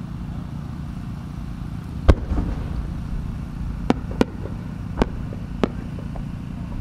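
Aerial fireworks heard from a distance: a deep bang about two seconds in, as a large shell is fired from its mortar, then four sharp pops over the next few seconds as small flower bursts go off along the rising shell's trail, over a steady low rumble.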